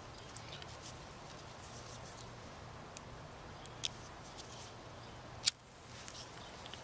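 Small clicks and rustles of camp gear being handled, with one sharp, louder click about five and a half seconds in.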